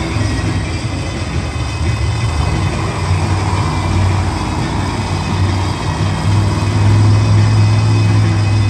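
Monster truck's supercharged V8 engine running steadily, growing louder from about six seconds in.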